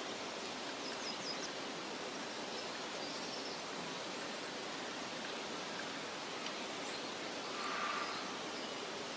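Meadow ambience: a steady soft hiss of wind through grass, with a few faint, short, high bird chirps and a brief slightly louder call near the end.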